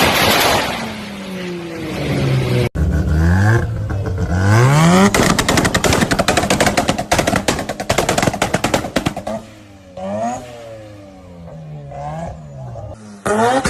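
Car engine revved repeatedly with its exhaust crackling and popping on the overrun: a long rapid string of pops through the middle, then a few shorter throttle blips with more pops.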